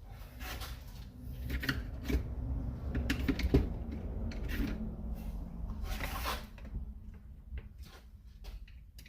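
Handling and rummaging noises: irregular clicks, taps and rustles of tools and small parts being moved about, over a low steady background rumble.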